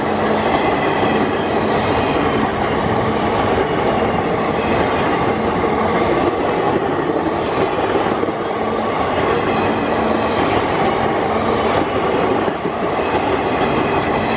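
Indian Railways passenger coaches of an express train rolling past at speed close by, with their wheels running over the rails in a loud, steady rumble.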